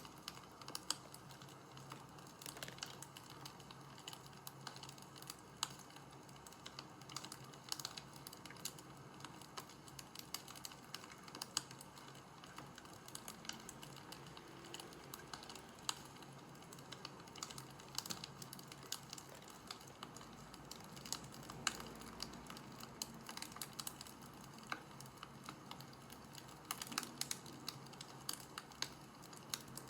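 Wood fire crackling: irregular small pops and snaps over a faint steady background.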